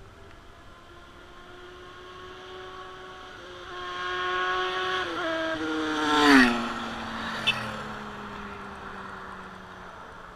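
Motorcycle passing close by: its engine note grows and rises as it approaches, then drops sharply in pitch as it goes past about six seconds in and fades away. A short sharp click follows about a second later.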